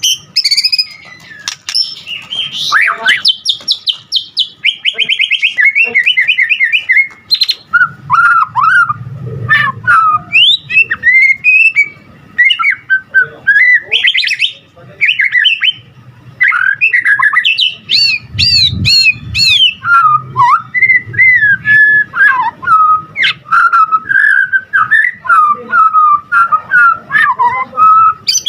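White-rumped shama singing a long, unbroken, varied song. It opens with fast high trills and rapid repeated notes, then moves to lower whistled phrases that keep changing, a song studded with imitations of other birds' calls.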